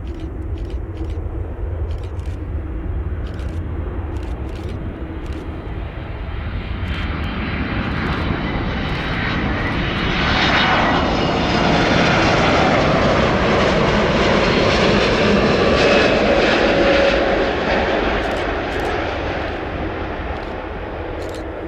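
Jet airliner's engines passing close by, the noise swelling to a peak around the middle with a sweeping, shifting tone, then fading away.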